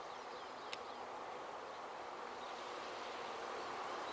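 Faint, slowly swelling rumble of a distant TER train of two coupled Régiolis bimode units approaching along the line, over rural outdoor background. A single sharp tick sounds about a second in.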